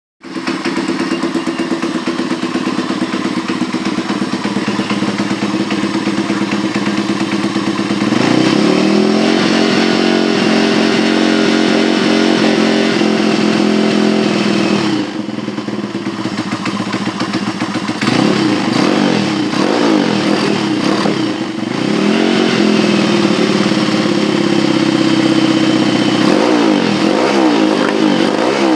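Pit bike engine running steadily at first, its revs stepping up about eight seconds in and holding. After a brief dip midway, the engine speed rises and falls repeatedly through the second half.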